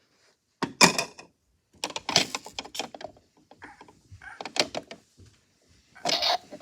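Plastic toy washing machine with two magnets inside, clacking and rattling in short irregular bursts with quiet gaps between.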